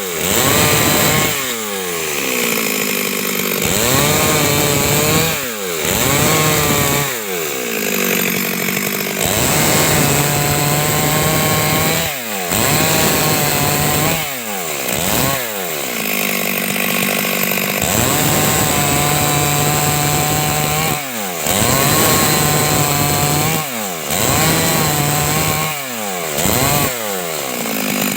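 Stihl MS 382 two-stroke chainsaw cutting wood, its engine pitch repeatedly sagging as the chain bites into the cut and climbing back again, about a dozen times.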